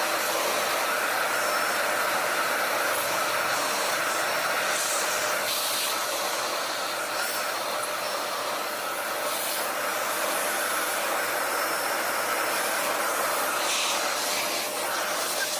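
Vacuum cleaner running steadily, a continuous whine and rush of air, with brief changes in the hiss now and then as the nozzle moves over the dusty set.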